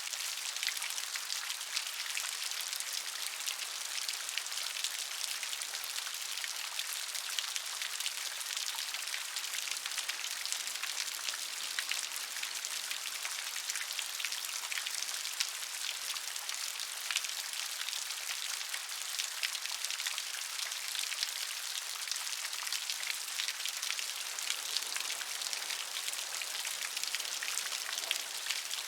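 Steady gentle rain: an even hiss of falling rain with many small drops pattering and ticking on a surface.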